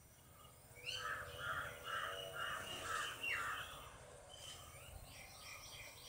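Bird calling: a quick run of about six repeated notes, starting about a second in and lasting a couple of seconds, followed by fainter chattering calls.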